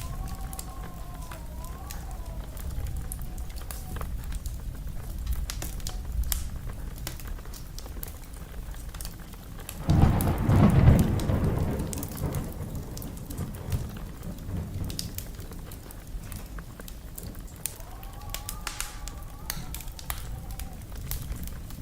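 Wood fire crackling, with scattered sharp pops and snaps. About ten seconds in, a louder rushing rumble swells for roughly two seconds. A faint wavering whistle comes near the start and again near the end.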